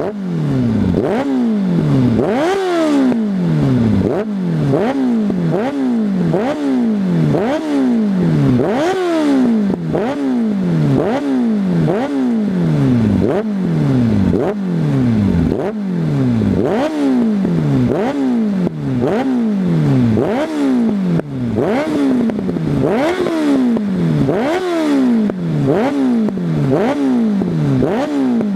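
Suzuki GSF 600 N Bandit's inline-four engine with an aftermarket exhaust, revved in quick repeated throttle blips of slightly more than one a second. Each rev jumps up sharply and falls away, with popping backfires from the exhaust on the overrun.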